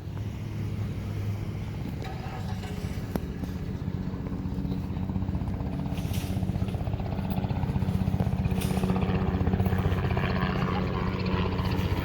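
A vehicle engine running steadily at low revs, a constant low hum that grows slightly louder over the stretch.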